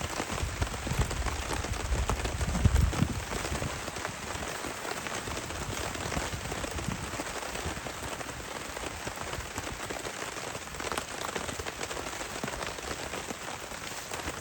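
Heavy rain falling steadily, a dense even hiss of drops. In the first three seconds a low rumble sits under it, swelling to a peak and then dying away.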